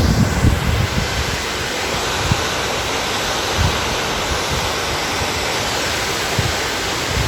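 Steady rush of a fast-flowing mountain waterfall, with a few brief low bumps of wind on the microphone.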